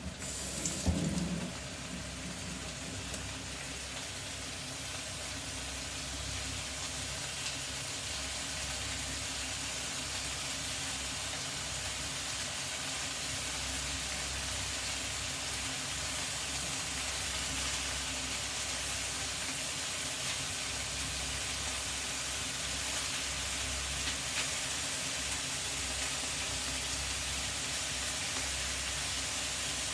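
Maitake mushrooms sizzling in butter in a frying pan, a steady frying hiss that slowly grows louder. There is a brief louder clatter in the first second or two.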